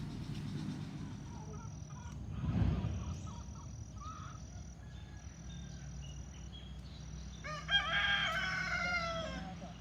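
A rooster crowing once, a long call of about two seconds near the end. A brief low rumble comes about two and a half seconds in.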